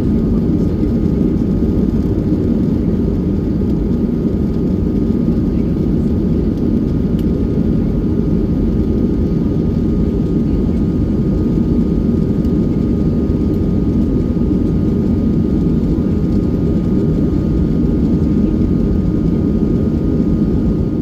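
Steady cabin noise of a Boeing 737-800 heard from inside the cabin: a dense low rush from its jet engines, with a faint thin steady tone above it. It stops abruptly at the very end.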